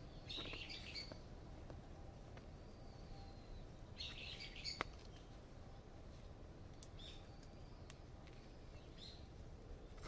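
Birds chirping faintly in short, scratchy calls, about four times, with one sharp click a little before halfway.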